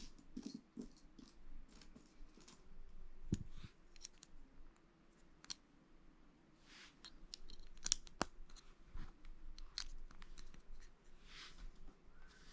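Lego plastic bricks being handled and pressed together: irregular light clicks and snaps, a sharper snap about three seconds in and another about eight seconds in, with brief rustles of pieces being moved between them.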